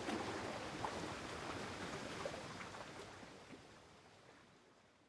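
Lake water lapping and splashing, with small scattered splashes, fading out steadily.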